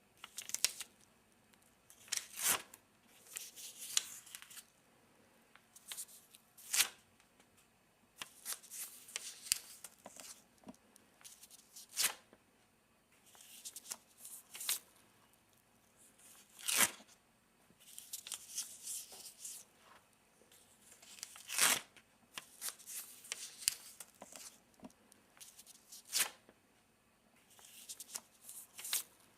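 Paper sticky notes being torn off and handled. A sharp rip comes about every four to five seconds, with softer rustling and crinkling of paper between the rips.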